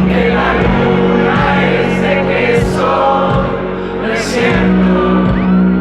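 Live rock band performing a song, with many voices singing together over sustained bass and guitar.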